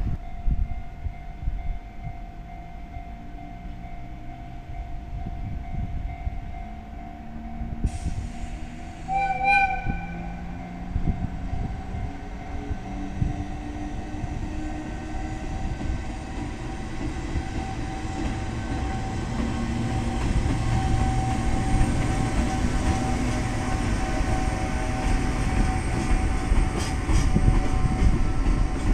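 JR Freight EF210 electric locomotive hauling a container freight train toward the listener, with a DD200 diesel towed dead behind it: a rumble of wheels on rail that grows louder as it nears. A short horn blast sounds about nine seconds in, and wheel clicks come near the end as the locomotive passes.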